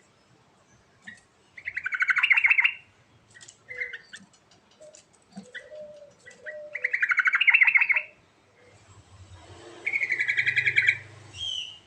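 Yellow-vented bulbul (trucuk) singing: three loud bursts of rapid bubbling notes, one about two seconds in, one about seven seconds in and one near the end, with short chirps between them.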